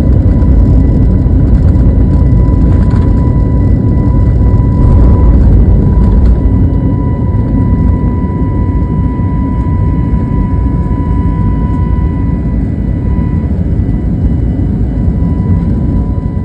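Cabin noise inside an Airbus A321XLR airliner: loud, steady jet engine and airflow rumble with a steady whine, easing slightly in the second half.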